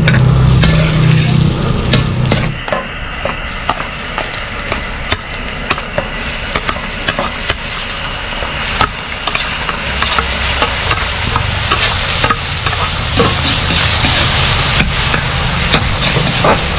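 Butter sizzling in a hot aluminium wok while a metal spatula clinks and scrapes against the pan. Sliced tomatoes, carrots and onions go into the wok partway through, and the frying sizzle grows louder in the second half. A low hum runs under the first two seconds or so, then stops.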